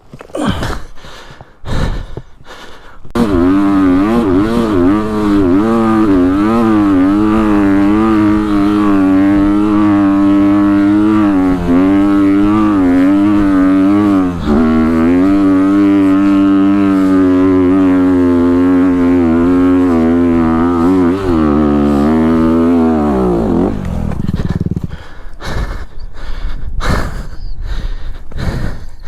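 Dirt bike engine running hard under load up a hill climb, its pitch wavering up and down with the throttle for about twenty seconds, then dropping away. Choppy bursts of rough noise come before it starts and after it drops off.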